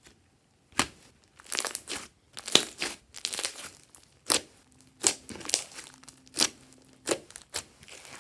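Glossy slime being pressed, stretched and folded by hand, giving an irregular string of sharp sticky clicks and short crackling pops.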